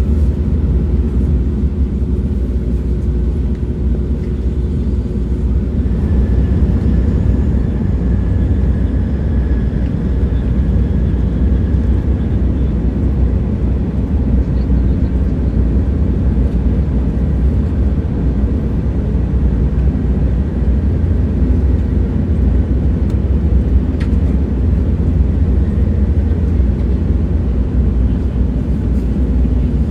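Steady low rumble of a moving train, with faint whining tones drifting in and out above it and a single short click late on.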